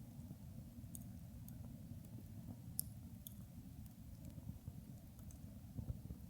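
Wood campfire crackling quietly, with a few sharp pops over a low, steady rustle of burning.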